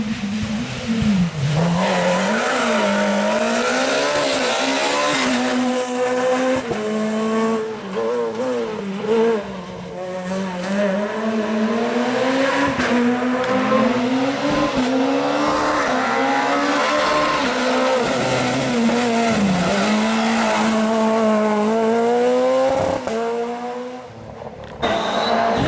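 Rally car engines at racing revs, their pitch climbing and dropping again and again with gear changes and lifts off the throttle. Near the end the level dips briefly before the engine sound picks up again.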